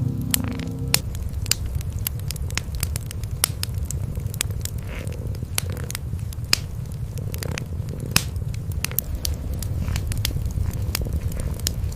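Cats purring in a low, steady rumble, with a wood fire crackling in sharp, irregular snaps over it.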